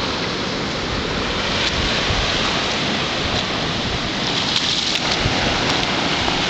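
Water rushing and bubbling up steadily from volcanic springs, an even hiss with a low rumble under it.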